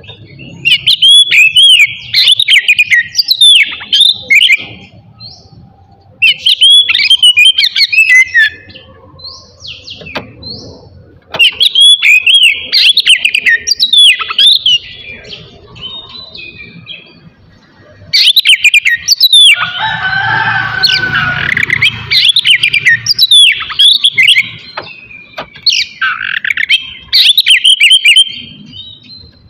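Oriental magpie-robin (kacer) singing loudly in bursts of fast, varied whistled and sweeping notes with short pauses between phrases. About twenty seconds in comes a denser, harsher chattering phrase.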